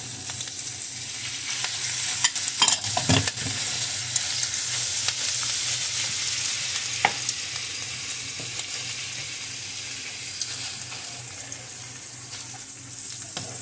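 Ground turkey, onion and ham sizzling in olive oil in a frying pan while being stirred with a wooden spoon, with a few knocks about three seconds in and another near the middle. The sizzle eases slightly near the end.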